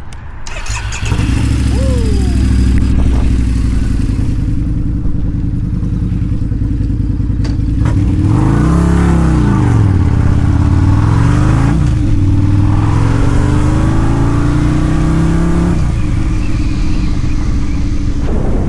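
Harley-Davidson V-Rod Night Rod Special trike's liquid-cooled Revolution V-twin starting up about a second in and idling. Then it is revved and pulls away: the engine note rises and falls, then climbs twice with a sudden drop each time, typical of upshifts under acceleration.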